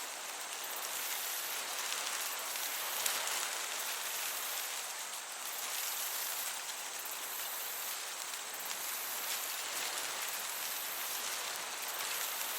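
Summer meadow ambience: a dense, steady chorus of chirping crickets over a soft breeze, the highest chirring pulsing on and off about once a second.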